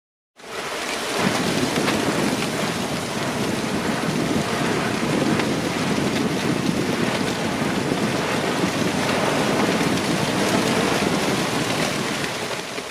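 Erupting volcano: a steady rushing noise with fine crackling, cutting in abruptly about half a second in.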